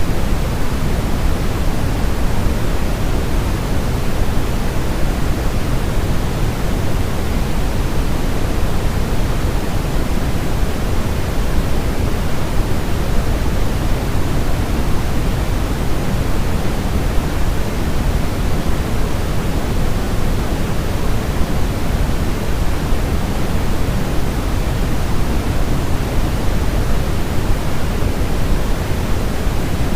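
Steady synthetic noise for baby sleep, an even hiss with no changes, weighted toward the low end like pink noise rather than flat white noise.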